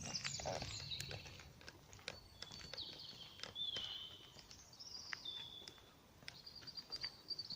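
Small songbirds singing: high, thin whistled notes that slide in pitch, and near the end a rapid trill. Footsteps click faintly underneath.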